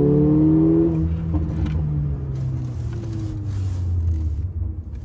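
Mercedes-AMG A45's turbocharged four-cylinder heard from inside the cabin. Its revs climb under acceleration for about a second, then ease off, and the engine runs on low and steady.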